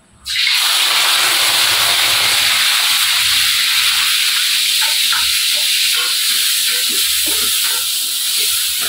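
Chopped shallots and chilies hitting hot oil in a wok: a loud sizzle that starts suddenly and carries on steadily as they fry at the start of a stir-fry.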